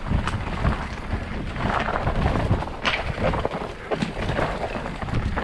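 Wind buffeting the microphone: a gusting low rumble, with a few scattered knocks and rattles, one of them about three seconds in.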